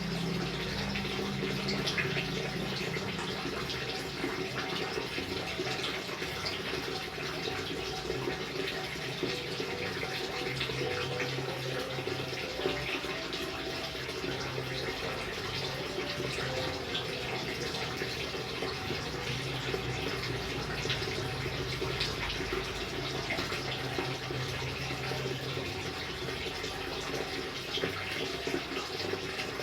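Steady rain with water running and splashing continuously, dotted with many small drop ticks.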